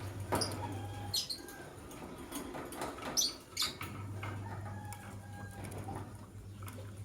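Lovebirds giving short, high chirps, a few at a time about a second in and again around three seconds in. Light clicks and scratching come from movement in the cage, over a steady low hum that drops out for a few seconds.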